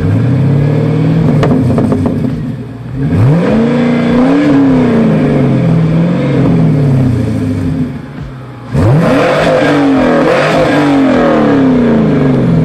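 Fourth-generation Chevrolet Camaro's GM LS-series V8 being revved while parked. The engine note sweeps sharply up twice, about three and about nine seconds in, and falls back in steps each time.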